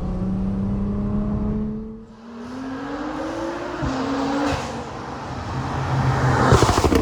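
Nissan GT-R R35's twin-turbo V6 with a loud exhaust accelerating. The pitch climbs steadily, then the engine lets off briefly about two seconds in. It climbs again and drops sharply at a gear change near four seconds, then grows louder and rougher toward the end.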